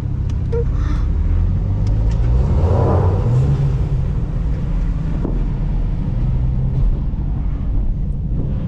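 Car engine and road noise inside a moving car, a 6-speed manual Nissan Altima; the engine pitch rises as it accelerates about two to three seconds in, then holds steady.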